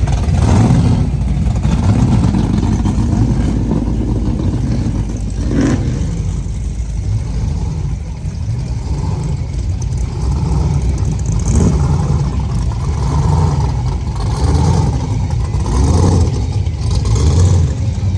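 A car engine running loudly, its low rumble rising and falling.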